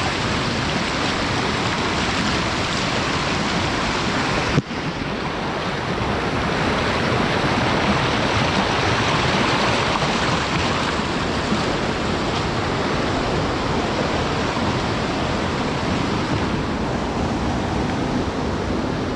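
Steady rushing of flowing water, with one short sharp break about four and a half seconds in.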